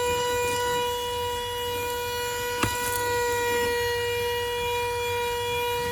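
Tzumi Ionvac cordless handheld vacuum running on its level 2 power setting, a steady high-pitched motor whine. A short sharp click about two and a half seconds in.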